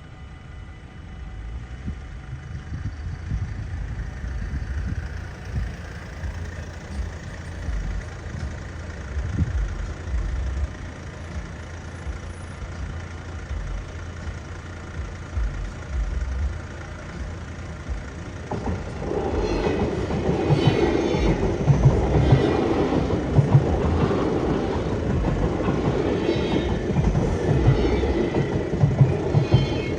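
NS ICM intercity electric train approaching with a low rumble, then passing close by from about two-thirds of the way in, loud with a rhythmic clatter of wheels over the rails.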